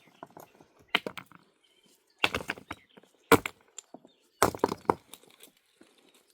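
A series of sharp knocks and cracks in irregular clusters, the sharpest one a little past halfway.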